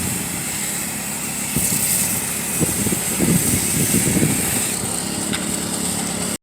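Pressure washer engine running steadily, with the hiss of water from a low-pressure rinse stream through an X-Jet nozzle.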